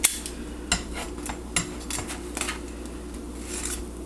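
Metal kitchen utensil clinking and scraping against a griddle pan while slices of bread are turned over to toast on the other side: a sharp clack at the start, then several lighter clicks and short scrapes, over a steady low hum.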